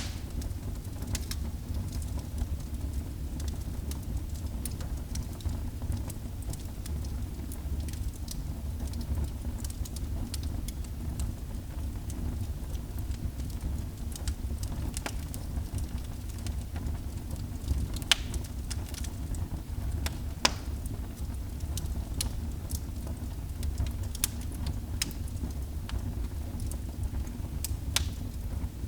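Wood fire burning in a fireplace: a steady low roar of the flames with scattered sharp crackles and pops, a few louder pops about 18 and 20 seconds in and near the end.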